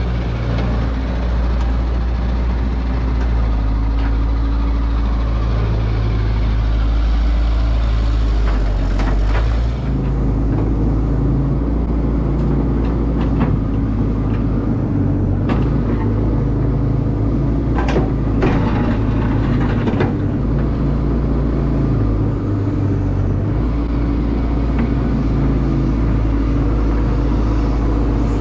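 Caterpillar excavator's diesel engine running under load, its note shifting about a third of the way in as the hydraulics work. A few short knocks and scrapes come in the middle, typical of the bucket working dirt and roots.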